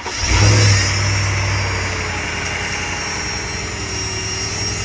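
Mercedes CLS550 engine starting with a brief surge and settling to a steady idle, carrying a weird noise, a thin high steady whine over the engine sound; the owner traces it to a bad accessory-drive pulley with worn grooves that had shredded and snapped the belt.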